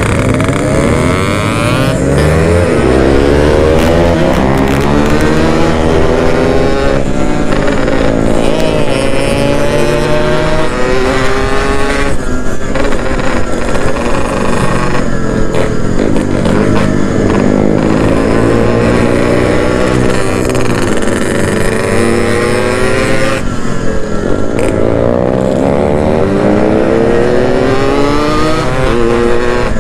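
Yamaha RX-King's single-cylinder two-stroke engine under way, its note repeatedly rising as it accelerates and dropping back as it shifts or eases off. The owner says the engine is already low on compression and due for an oversize rebore.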